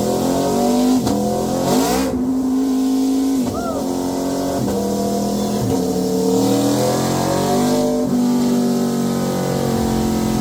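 Aprilia RSV4's V4 engine running hard at high revs, its pitch mostly steady with several brief dips and sweeps through the first few seconds, then climbing slowly, under a rush of wind noise.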